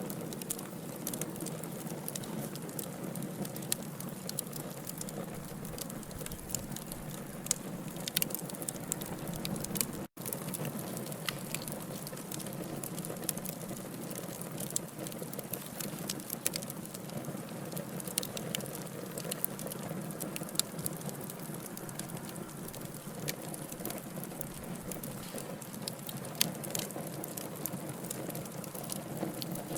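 Log fire burning: a steady low rush of flames with frequent small, sharp crackles and pops from the wood, broken by a momentary dropout about ten seconds in.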